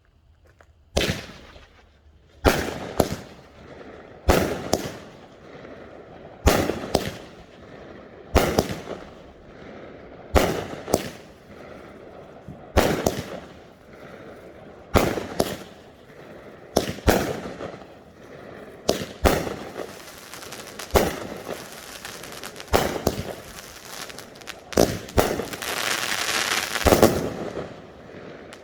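A 16-shot, 200-gram consumer firework cake firing. Sharp shots come roughly every two seconds, often in quick pairs of launch and break. Crackling between shots grows into a dense crackle in the finale near the end.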